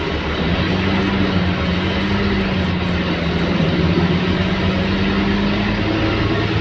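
Scania K280UB city bus's five-cylinder diesel engine running under way, with road noise, a steady drone whose pitch shifts slightly a few times.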